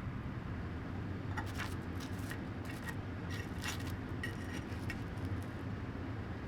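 A run of light clicks and small clinks, like utensils or small hard objects knocking together, from about a second and a half in until about five seconds in, over a steady low hum.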